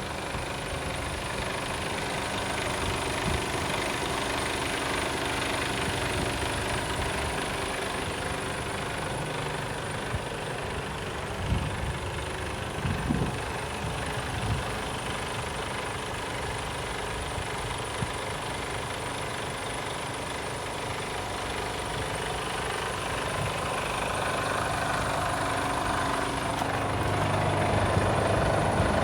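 Mercedes Actros 1840 tractor unit's 400 bhp Euro 6 diesel engine idling steadily. A few short knocks sound about midway, and the engine grows louder near the end.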